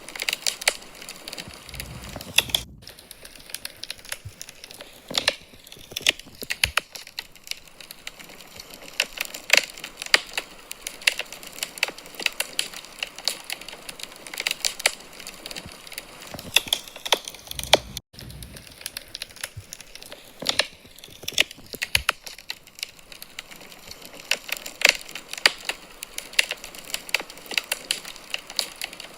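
Wood fire burning in a fireplace, crackling with irregular sharp pops and snaps over a soft steady hiss, with a brief low rumble twice.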